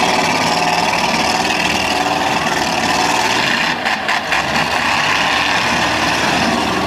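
Vehicle engines running steadily at a demolition derby, a loud, continuous mix of engine noise.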